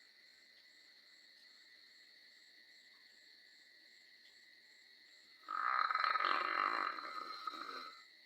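A dog snoring: one long snore of about two and a half seconds, starting a little past halfway through, over a steady high insect trill with a faint fast pulsing chirp above it.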